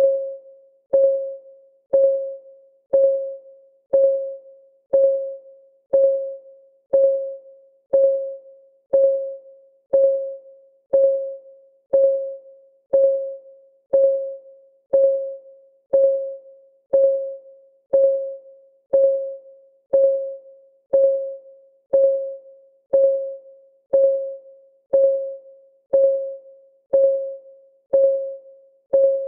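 Countdown timer's clock-tick sound: a short, pitched tick with a brief ringing tone, repeating evenly once every second.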